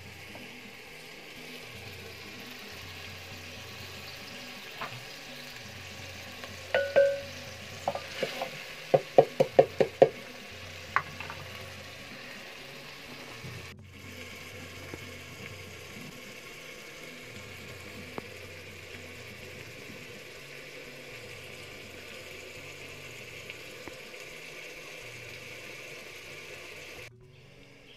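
Beans frying in a metal pot with a steady sizzle while a wooden spoon stirs them. A third of the way in, the spoon knocks against the pot about six times in quick succession.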